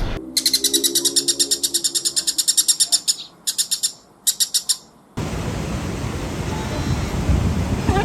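A bird calling in fast, high-pitched chirping trills of about ten notes a second: one long run of about three seconds, then two short runs. A little past halfway it cuts off abruptly to a steady, noisy background hiss.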